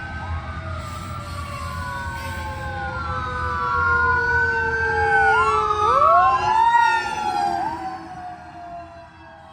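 Several emergency-vehicle sirens wailing at once, their pitches sliding slowly up and down and crossing each other. They grow louder to a peak about six to seven seconds in, then fade. A low rumble runs underneath and dies away near the end.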